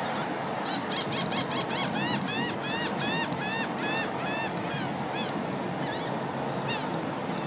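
A bird calling in a quick run of short notes that each rise and fall, about three a second, thinning out about five seconds in, over a steady rushing background noise.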